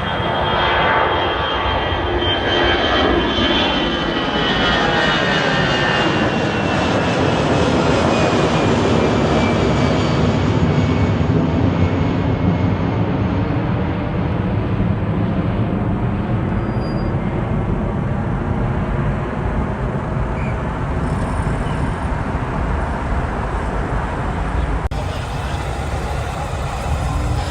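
Jet airliner passing close by, its engine whine sliding down in pitch as it goes past, then a long steady rumble.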